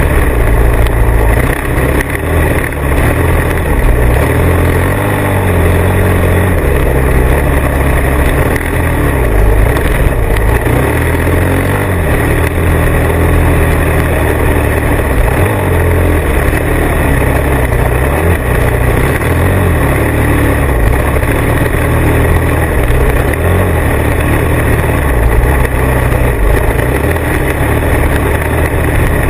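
Motorcycle being ridden, its engine running steadily under heavy wind buffeting on the microphone.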